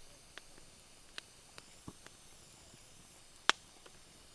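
Campfire wood crackling over a faint steady hiss, with a few scattered small pops and one loud sharp snap about three and a half seconds in.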